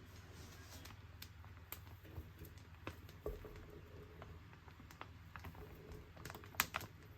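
Faint scattered clicks and light taps of small hard objects being handled, with a quick run of sharper ticks near the end.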